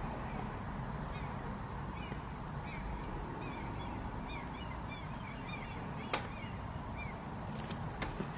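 A bird giving many short, repeated high-pitched calls over steady background noise, with a single sharp click about six seconds in.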